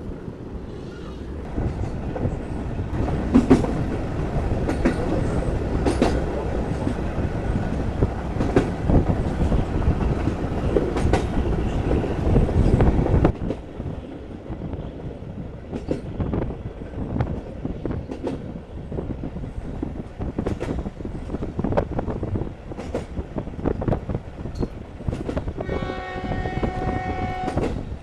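Passenger train running, with wheels clicking over rail joints under a loud rumble that drops off abruptly about halfway through. The train then runs on more quietly with scattered clicks. Near the end the locomotive's horn sounds one steady blast of about two seconds.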